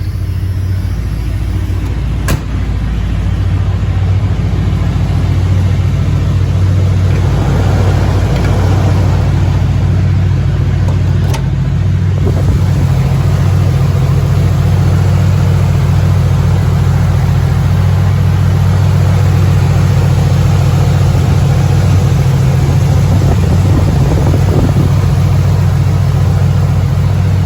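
Carbureted 7.5L 460 V8 of a 1987 Ford Econoline E350 idling steadily while it warms up after a cold start. It grows a little louder about three seconds in, and two sharp clicks come a couple of seconds in and again around eleven seconds.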